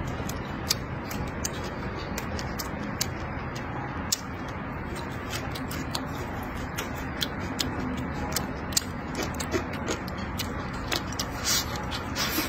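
A person eating at close range: chewing stir-fried meat and rice with many irregular wet mouth clicks and smacks, over a steady low hum. Two short hissing slurps come near the end as the next bite goes in.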